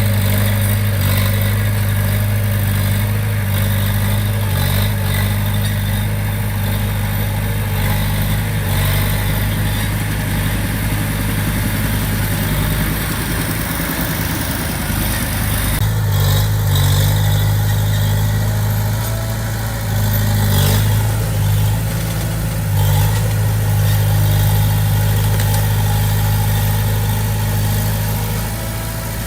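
Komatsu D20P bulldozer's diesel engine running steadily, with its note changing about halfway through.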